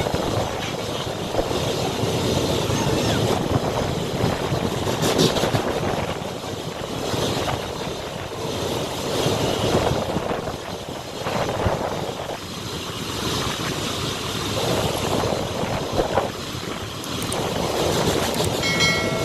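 Local passenger train running on the rails: a steady rumbling, rattling noise that swells and fades several times. A short pitched tone sounds just before the end.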